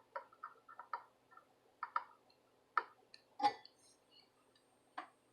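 Irregular light clicks and taps of small hand tools and parts being handled on an electronics repair bench, the loudest about three and a half seconds in.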